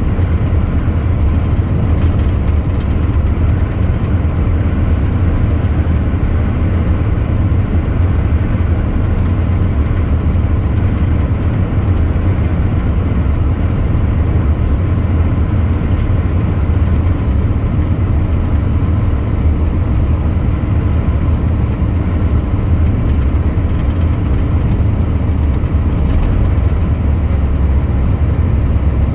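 Truck driving along at a steady pace: a continuous low engine and road rumble with no changes.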